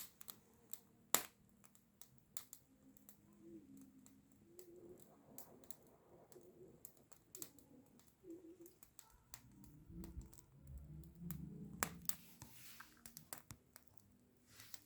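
Wood campfire crackling: irregular sharp pops and snaps of burning wood, with a stretch of low rumbling noise about ten to twelve seconds in.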